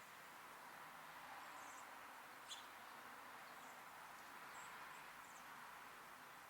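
Faint outdoor ambience with a steady hiss and scattered short, high chirps of small birds, one sharper chirp about two and a half seconds in.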